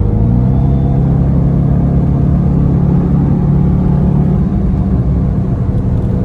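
Dodge Charger R/T's 5.7-litre Hemi V8 under acceleration at freeway speed: its pitch climbs in the first half-second, then holds steady with a slow further rise.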